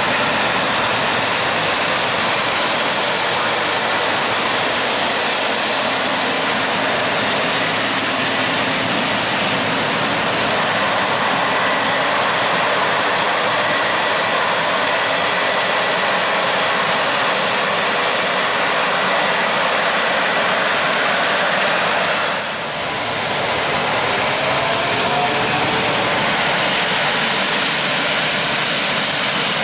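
Combine harvester running through corn: steady loud machine noise with a faint high whine, dipping briefly about 22 seconds in.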